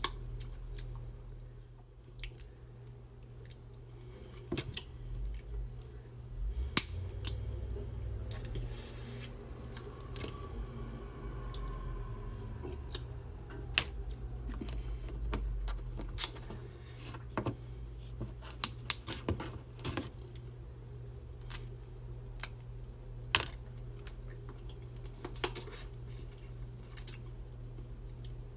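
Close-miked seafood boil eating sounds: scattered sharp clicks and cracks as the food is handled, with a short crinkly rustle about nine seconds in, over a low steady hum.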